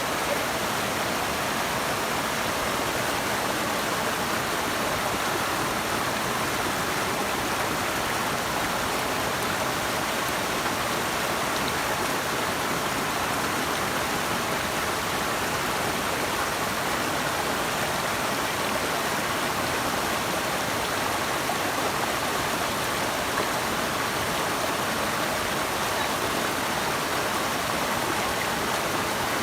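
Flowing water rushing steadily, like a river or stream, with no separate splashes or breaks.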